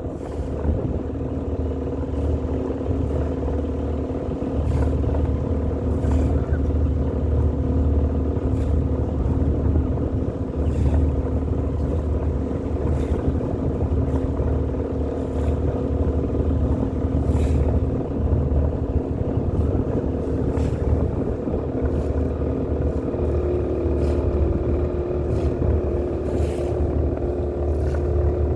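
Boat engine running at a steady speed, a constant low drone with a rushing haze of wind and water over it.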